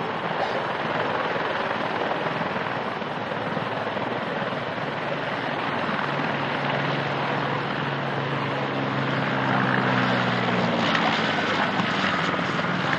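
Aircraft engine noise overhead: a steady rushing drone, with a low humming tone that comes in about halfway through and fades out again, then louder near the end.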